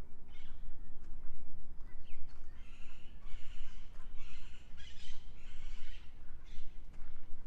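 Forest birds chirping and calling in quick repeated bursts, busiest in the middle, over a steady low rumble.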